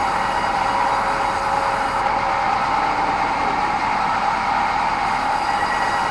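Sawmill band saw running steadily, a constant mechanical noise with a strong steady tone just under 1 kHz.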